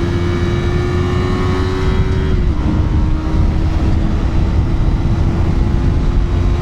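Yamaha R3's parallel-twin engine holding steady revs under way, with wind rumble on the microphone; the engine note drops slightly about two and a half seconds in as the rider eases off.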